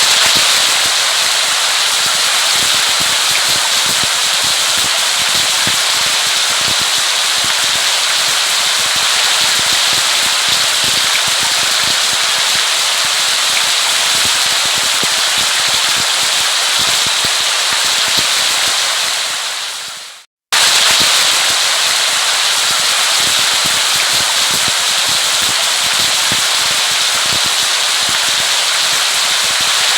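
Steady heavy rain, a dense crackling patter of drops. About twenty seconds in it fades out to a moment of silence and starts again at full level, as a looped recording does.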